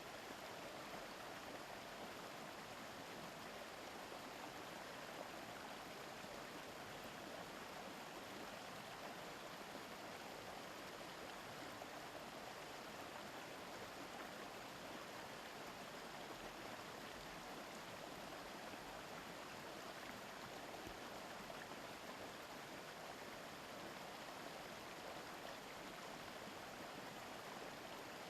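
Mountain stream flowing, a steady even rush of running water.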